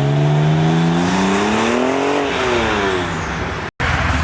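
A car engine's note climbs steadily for about two seconds, then falls away. Near the end the sound cuts out sharply and comes back as a steady low engine hum.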